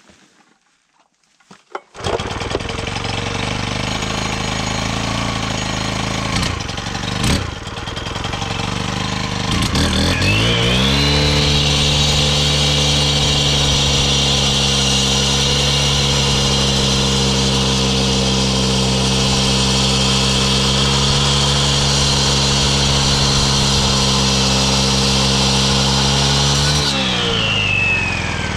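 Makita EK7650H four-stroke concrete saw comes in suddenly about two seconds in and runs at a lower speed. About ten seconds in it revs up to full throttle and holds there with a high whine while the blade cuts dry through a rock. It winds back down near the end.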